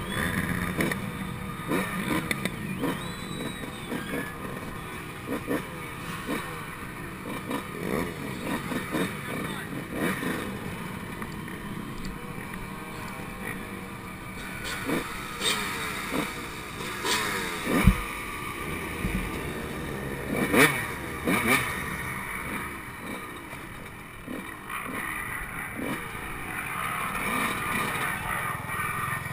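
Yamaha YZ125 two-stroke motocross engine running, its revs rising and falling, muffled through a GoPro's housing, with scattered knocks and clatter from the bike.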